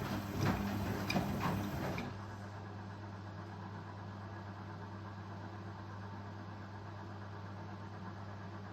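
Indesit Ecosense washing machine running: irregular clicking and rattling for about two seconds, which stops suddenly and leaves a steady low hum.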